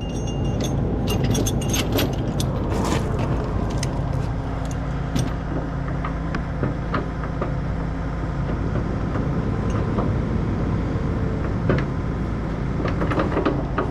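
Heavy diesel truck engine idling steadily, with scattered metallic clinks and rattles of chain and rigging hardware being handled.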